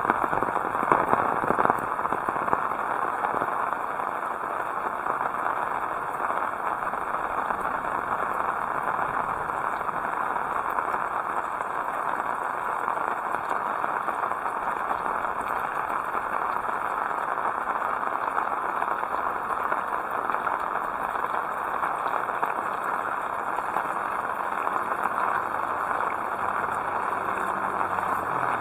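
Heavy rain falling steadily, an even hiss. Near the end a motor vehicle's engine hum begins to come in under the rain.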